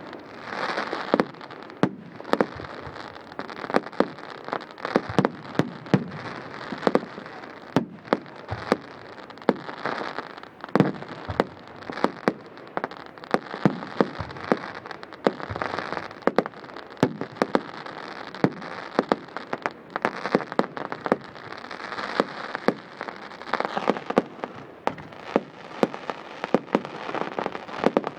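Fireworks display: a rapid, irregular run of sharp bangs and cracks over a continuous crackling hiss.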